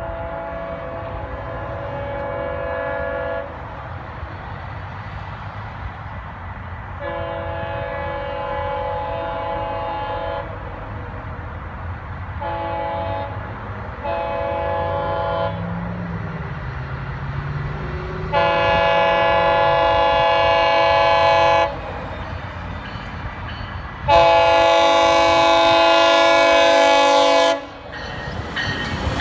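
GO Transit train's multi-note horn sounding six blasts: two long, two shorter, then two louder long ones, over the low rumble of the train running on the track.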